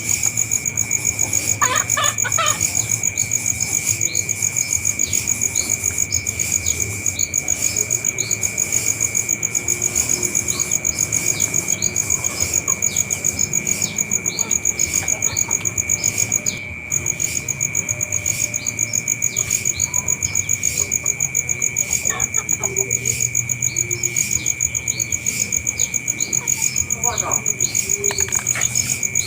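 An insect chirping steadily in an even, fast pulse of about four chirps a second, with a shrill high tone. Faint short chirps are heard now and then.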